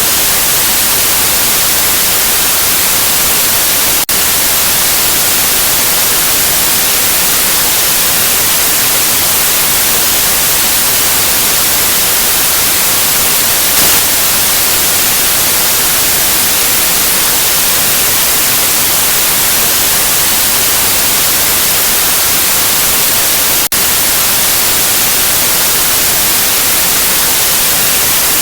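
Steady, loud white noise: an even, unbroken hiss that is heavier in the treble, with two split-second dips in level, about four seconds in and near the end.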